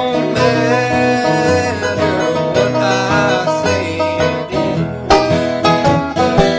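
Banjo and acoustic guitar picking a country-bluegrass tune together, with a steady run of plucked notes.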